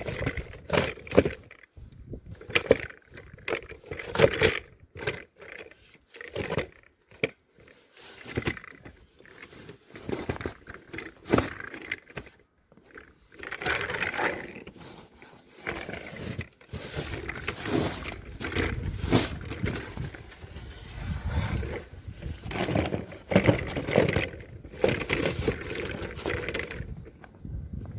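A snow shovel blade pushed and scraped through deep snow, repeatedly, in uneven strokes. It digs into the gravel underneath and catches, so the blade buckles up.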